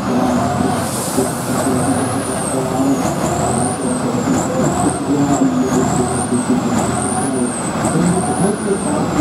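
Truck engine running hard, its pitch wavering as the revs come and go, with a high whistle that rises and falls about every second.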